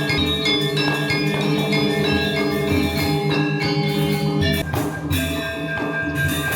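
Balinese gamelan playing: struck metal keys and gongs with long ringing tones over a low pulse. A little before the end the music moves to a new phrase on different notes.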